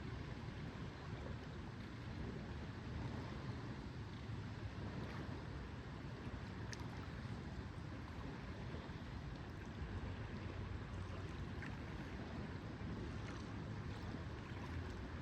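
Lakeside ambience: a steady wash of wind and lapping lake water, with a brief faint high tick about seven seconds in.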